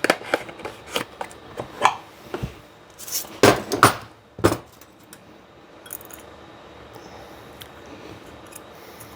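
Metal clicks and knocks of transmission parts being handled as a clutch piston is fitted into its clutch drum, with a few louder knocks about three to four seconds in. After that only a faint steady hum remains.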